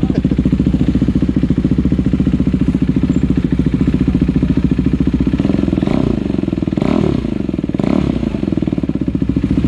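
KTM RC 390's single-cylinder engine idling through a freshly fitted IXIL exhaust with a welded link pipe. In the second half the throttle is blipped about three times, the note rising and falling each time.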